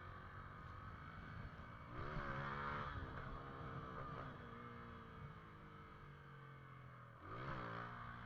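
Motorcycle engine revved hard twice, pitch climbing sharply about two seconds in and again near the end, then winding slowly down between the blips of throttle, as for pulling a wheelie.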